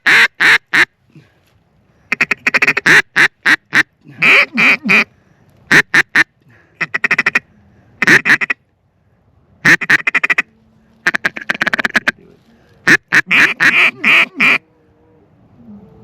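Loud duck quacking in about ten short runs of quick, sharp quacks, with brief pauses between the runs.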